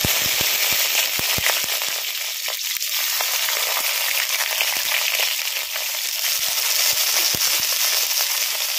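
Bottle-gourd-leaf parcels of banana-flower paste sizzling in hot oil in a kadai, a steady hiss with sharp spitting pops that are thickest in the first second or so, as each parcel goes in.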